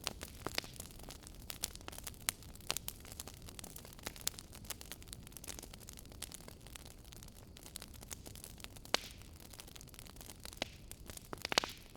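Wood fire in a fireplace crackling: irregular sharp pops and snaps over a low steady hiss, with a quick cluster of pops near the end.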